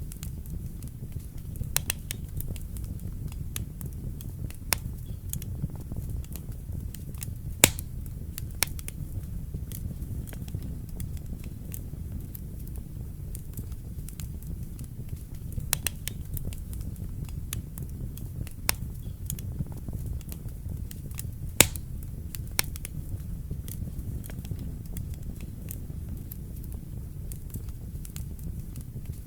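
Wood fire burning in a fireplace: a steady low rumble of flames with irregular sharp crackles and pops, two of them louder, about a third of the way in and about three quarters of the way in.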